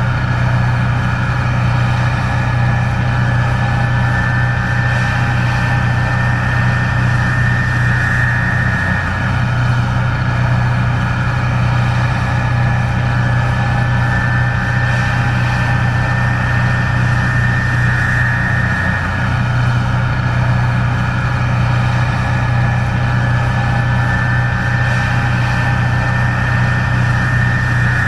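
Case IH 1660 Axial-Flow combine running steadily while harvesting corn: a constant low engine drone with a steady high machinery whine above it.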